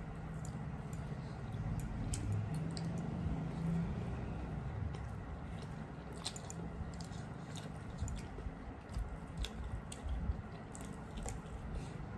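Close-miked chewing and lip-smacking of people eating rice and fish curry by hand, with soft squelching as fingers knead the wet rice on steel plates and many small scattered clicks.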